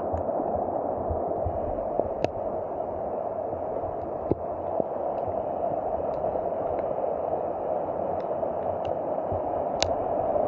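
Waterfall rushing steadily, with a few faint sharp clicks scattered through it.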